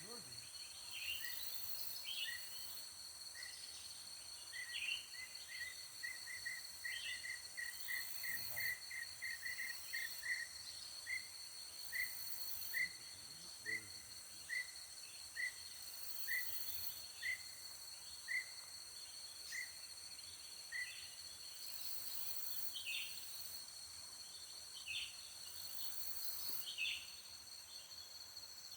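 Tropical forest insect chorus: a steady high, pulsing trill with louder swells at the very top every couple of seconds. Over it, a run of short whistled notes speeds up, then slows down and stops about two-thirds of the way through, with scattered short downward chirps.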